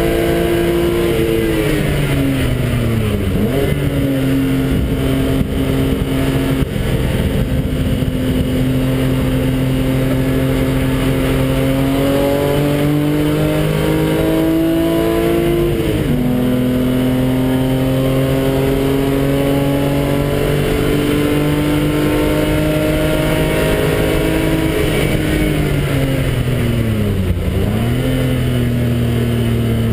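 BMW engine heard from inside the cabin on a track lap. The revs drop steeply about two seconds in, then climb slowly under power, step down sharply at a gear change about halfway through, and climb again. Near the end they fall hard as the car slows for a corner, then pick up again.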